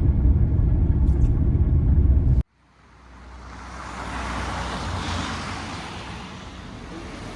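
Background music that cuts off abruptly about two and a half seconds in, followed by the tyre and engine noise of a road vehicle, which swells to a peak and then eases to a steady hiss with a low rumble.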